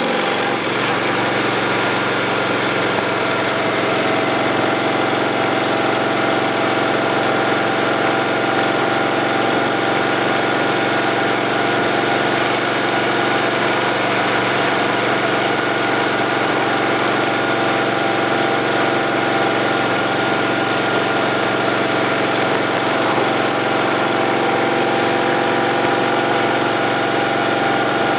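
Motorcycle engine idling steadily, its pitch unchanging.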